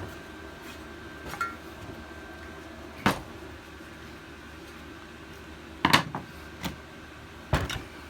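Sharp metallic clinks and knocks of hand tools and small parts on a small edger engine during teardown, about five irregular strikes with the loudest about six seconds in, over a faint steady hum.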